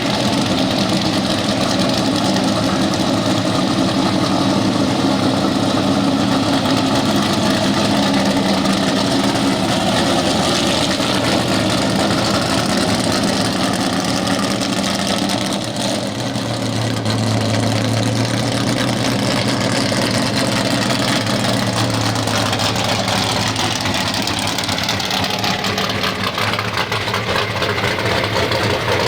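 Pulling truck's engine running steadily for the whole stretch. Its tone drops lower about halfway through and then holds.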